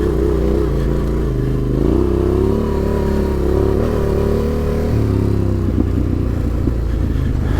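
Adventure motorcycle engine running on a rough dirt track, the revs rising and falling as the rider works the throttle, with a low rumble underneath. Several short knocks and rattles come in near the end.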